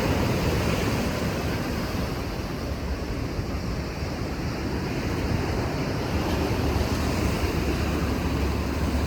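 Sea surf washing in, a steady rushing noise, with wind buffeting the microphone as a low rumble that grows stronger in the last few seconds.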